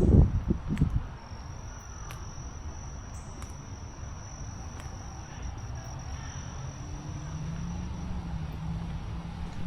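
An insect's steady, high-pitched trill running for several seconds, starting about a second in. Low thumps in the first second and a distant engine's low hum that grows near the end.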